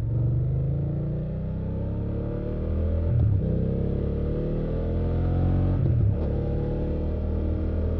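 BMW F800GS parallel-twin engine accelerating through the gears, its pitch climbing and then dropping at upshifts about three and six seconds in, then pulling more steadily.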